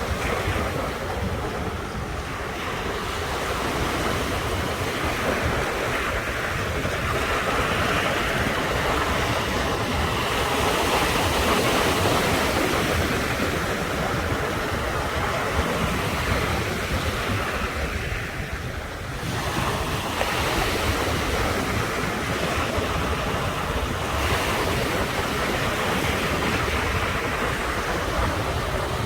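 Ocean surf: waves breaking and washing ashore in a continuous rush that swells and eases, dipping briefly about two-thirds of the way through. Wind rumbles on the microphone underneath.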